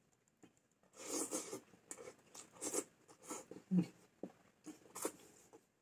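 A person eating: irregular chewing and mouth noises with a few sharp clicks.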